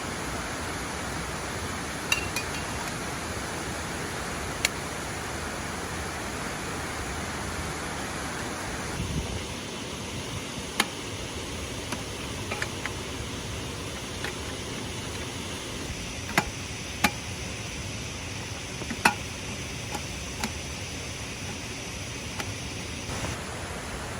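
Steady rush of flowing water from a waterfall, softer in the mid-range from about nine seconds in, with a dozen or so sharp clicks and knocks scattered through it.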